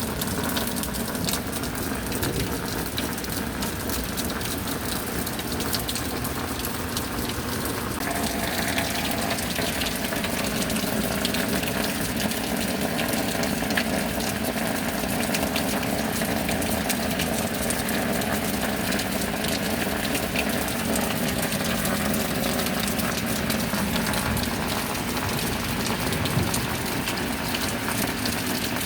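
Steady rain with a constant rush of water, its texture shifting slightly about eight seconds in.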